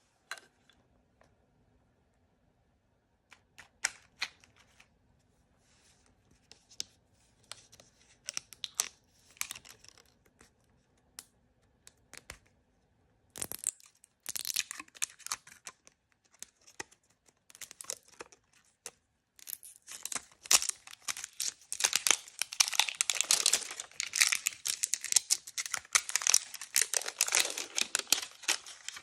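Blind-bag packaging being handled and torn open: a few scattered small clicks and rustles at first, then dense crinkling and tearing of the wrapper from about halfway through, loudest near the end.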